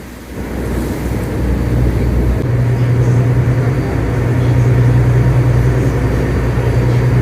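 A ferry's engine running steadily under way, a deep drone with a rushing noise over it.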